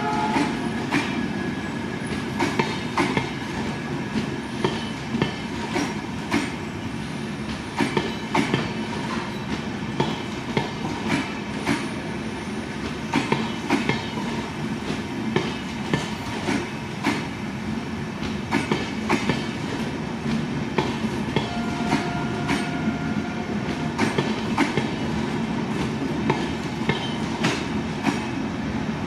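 Express passenger train coaches running past at speed, a steady rush with rapid wheel clacks over the rail joints. A brief faint whine comes in about two-thirds of the way through.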